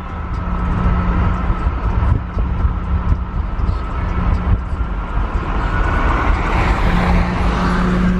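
Car driving on the road: steady engine and tyre rumble with a constant low hum, and a rush of passing traffic noise swelling from about six seconds in.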